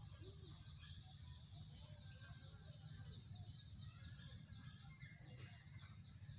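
Near silence: faint outdoor ambience with scattered distant bird chirps over a steady low rumble and a thin high steady tone, and a single faint click about five seconds in.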